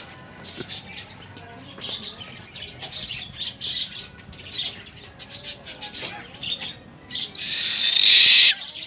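Owl giving one loud, harsh screech lasting about a second near the end, over scattered short high bird chirps.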